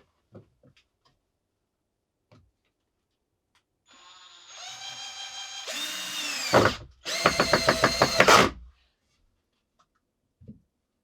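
Power drill running in two bursts: a first run of about three seconds whose pitch sags and winds down, then a shorter, louder run with a rapid even rattle.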